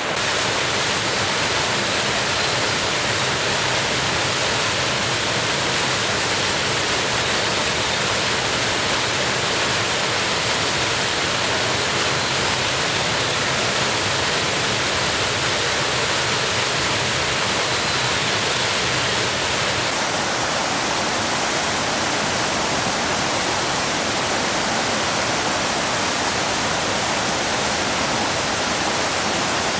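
Waterfall water falling and splashing into a rocky gorge, a steady full rushing noise. Its tone shifts slightly about twenty seconds in.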